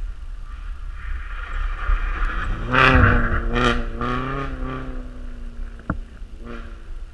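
Rally car engine going by, its note swelling and wavering in pitch to a peak about three seconds in, then fading, over a steady low wind rumble. A single sharp click comes near the end.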